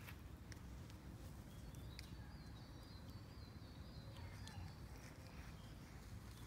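Faint outdoor ambience with a small bird's high chirps repeating over and over, and a few light ticks.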